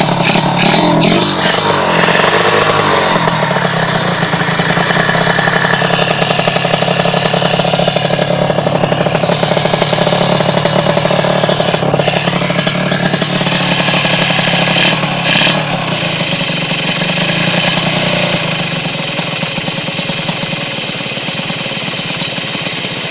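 Kawasaki Ninja R's two-stroke single-cylinder engine running through an aftermarket Creampie expansion-chamber exhaust while warming up. It revs up and down for the first few seconds, then runs steadily.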